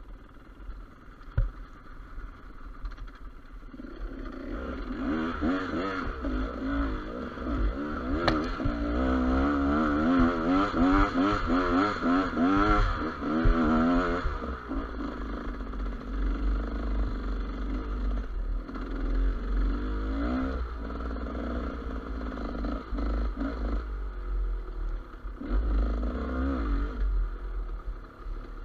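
Gas Gas EC200 two-stroke enduro motorcycle engine. It is quiet at first, then from about four seconds in it revs up and down quickly and unevenly for around ten seconds, then runs lower with a few short blips of the throttle. A deep rumble of wind and movement sits underneath.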